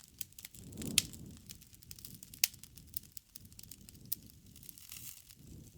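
Wood fire crackling: irregular sharp pops and snaps, the loudest about a second in and again about two and a half seconds in, over a soft low rumble of burning.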